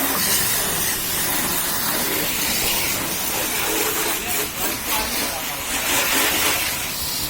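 High-pressure water spray hissing steadily, as from a pressure washer jet on a car body, with voices in the background.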